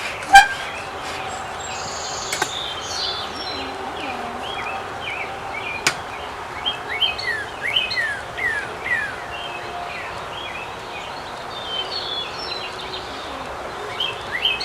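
Songbirds chirping in runs of short, quickly falling notes over steady outdoor background noise, with one sharp click about half a second in.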